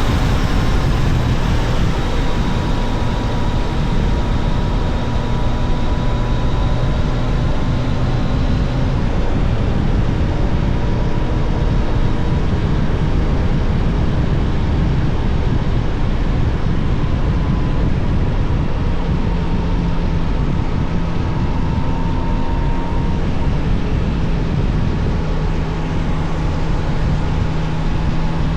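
Yamaha Tracer 900 GT motorcycle under way at a steady pace, its three-cylinder engine running under a steady rush of wind noise. The engine note holds nearly level and shifts a little about two-thirds of the way through.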